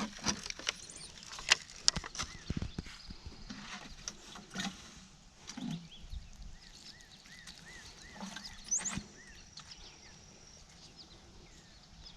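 Scattered knocks, taps and scrapes of a lettuce seedling being planted by hand in garden soil, busiest in the first few seconds and sparser after.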